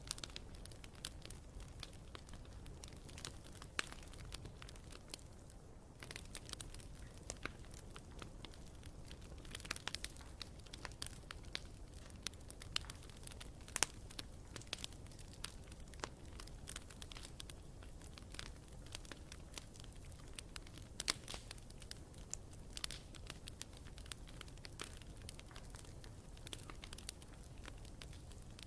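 Wood campfire burning, with many small irregular crackles and pops over a low rumble of the flames.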